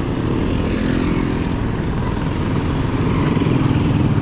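Road traffic on a city street: a motor vehicle engine running close by with a steady low rumble, over road noise.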